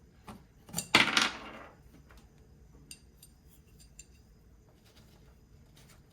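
Small metal parts of a hammer drill clinking and clattering as they are handled during hand disassembly. There is one louder clatter about a second in, then a few light clicks.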